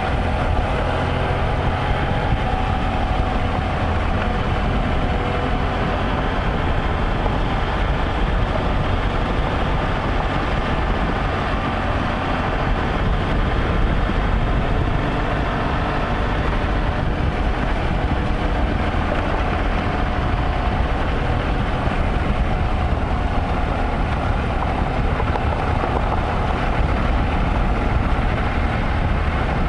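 Motorcycle riding at a steady speed: engine running steadily under wind and road noise, with no change in pace.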